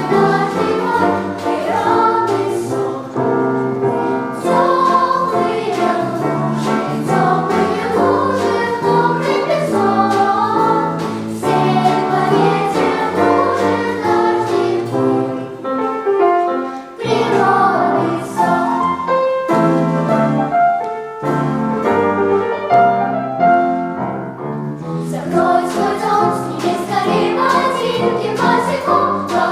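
A vocal ensemble singing a song together, the voices running continuously with a brief pause between phrases a little past halfway.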